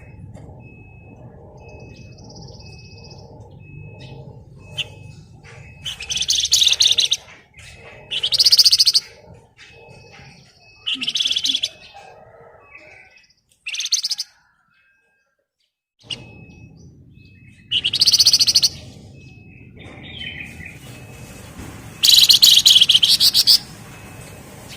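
Flamboyan (wergan jawa) songbird singing dense, rapid buzzing trills, the 'ngebren' song, in about six loud bursts of a second or so each, with short pauses between.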